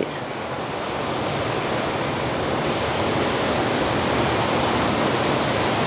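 Ocean surf: a steady wash of breaking waves that slowly swells louder over several seconds.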